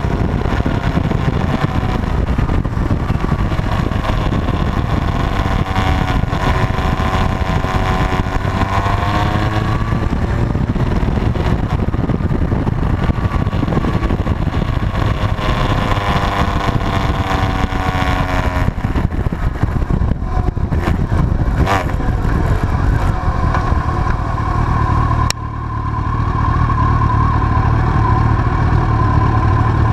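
Motorcycle engines running on the move, the engine note rising and falling as the bikes speed up and slow down. The sound cuts and changes abruptly about 25 seconds in.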